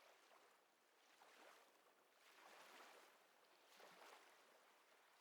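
Very faint ocean waves washing in soft, repeated swells of hiss.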